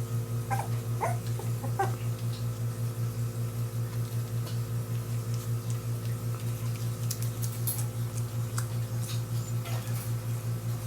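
Young Portuguese Water Dog puppies giving a few short, high squeaks in the first two seconds, with light clicks and scuffles later, over a steady low hum that pulses about four times a second.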